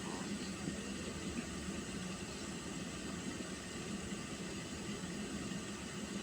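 Pot of water heating on a stove: a steady hissing rumble with a low hum underneath.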